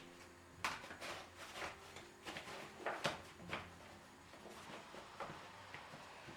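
Light household handling sounds: irregular soft knocks, clicks and rustles, about a dozen over the few seconds.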